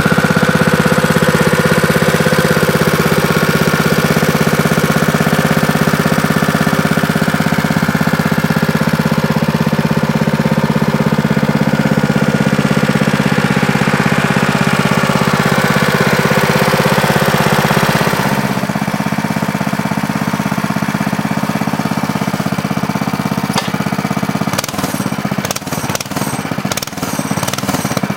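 Baja Warrior mini bike's 196cc single-cylinder four-stroke Honda-clone engine running at a steady speed, with a rapid, even beat. About two-thirds of the way through the engine sound thins and gets a little quieter, and a run of sharp knocks or clicks comes near the end.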